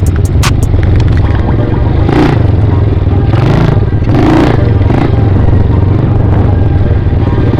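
Small dirt bike engine running steadily under way, with a few short swells of rushing noise and rattle partway through.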